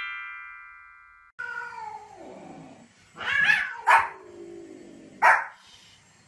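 A ringing chime from a transition jingle fades out over the first second. A cat then gives a long falling meow, and a small white spitz-type dog barks sharply two or three times.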